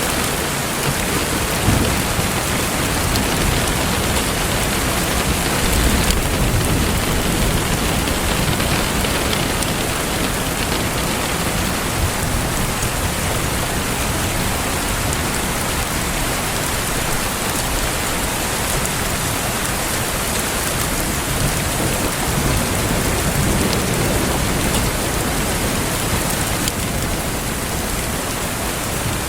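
Steady heavy rain, with low rolling rumbles of thunder, the strongest about six seconds in.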